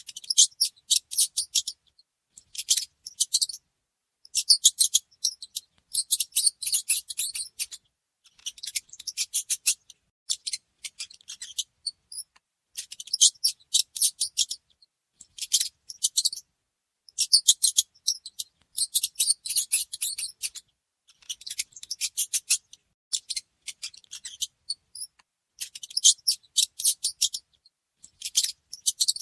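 Mice squeaking in bursts of rapid, high-pitched chittering, each lasting one to two seconds with short silent gaps between them.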